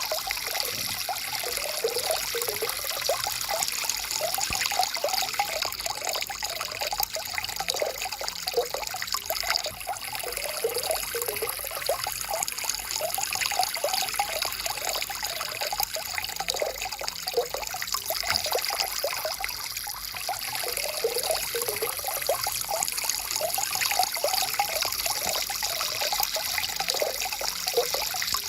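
Stream water flowing steadily: an even rush with many small bubbling gurgles.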